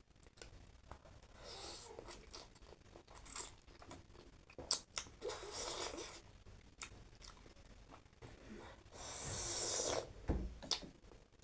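A person eating spicy instant noodles close to the microphone: chewing with small wet mouth clicks, and three longer slurps, the last and loudest about nine seconds in.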